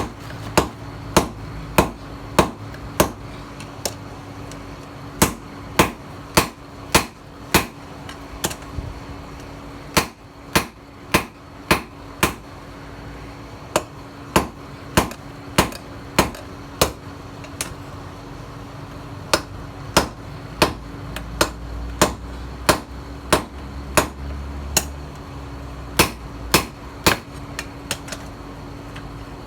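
Hand hammer striking steel on an anvil in runs of blows about two a second, with short pauses between runs, over a steady low hum. This is hand-forging a tiller-blade steel into a knife.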